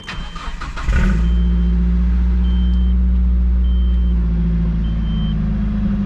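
A 2002 Nissan Frontier's 2.4-litre four-cylinder engine cranks briefly and catches about a second in, then runs steadily at a high start-up idle that begins to ease a few seconds later. A short high warning chime beeps about once a second throughout.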